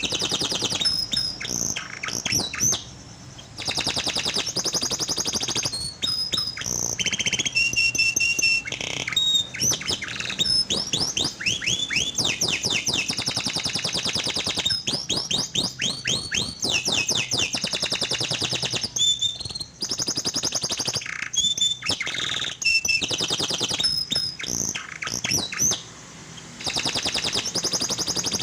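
Domestic canary singing a long, continuous song of rapid trills, rolls and fast rising sweeping notes, broken by short pauses about three seconds in, near the middle and near the end.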